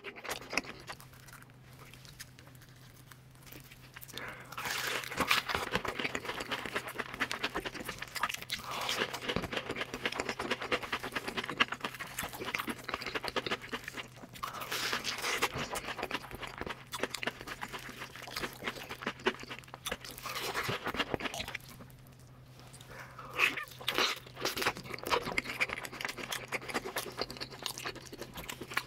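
Close-miked eating: crisp fried batter crunching and wet chewing, in long stretches broken by a quieter pause at the start and another about two-thirds through.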